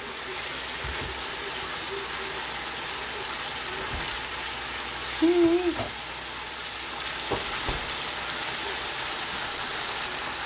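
Diced chicken and bell peppers in soy sauce sizzling in a frying pan, a steady hiss. A short voice sound about five seconds in, and a few faint knocks.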